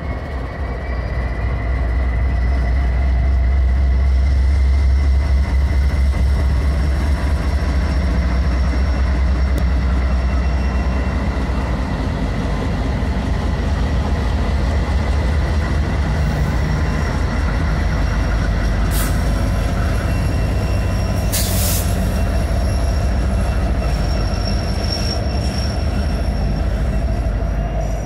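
Norfolk Southern diesel-electric freight locomotives passing close, with a heavy low engine rumble strongest in the first half, followed by double-stack intermodal container cars rolling by. Thin steady high-pitched wheel squeal runs over it, with a couple of short sharp clanks about two-thirds of the way through.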